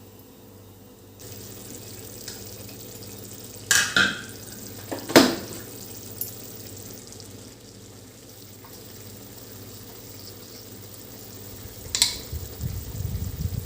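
Food frying in a pan with a steady sizzle that starts about a second in, with a few sharp clinks of a utensil against the pan.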